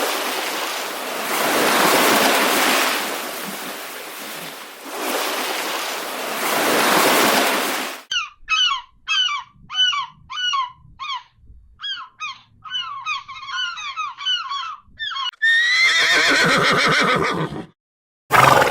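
A rushing, surf-like noise that swells and fades, then an animal's rapid series of short calls, about two a second, each dropping in pitch. One longer gliding call follows, and a brief loud burst comes near the end.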